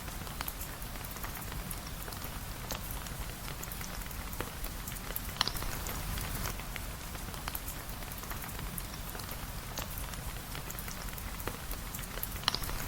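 Steady rain falling, with scattered sharp ticks and drips, a few of them louder, about five seconds in and near the end.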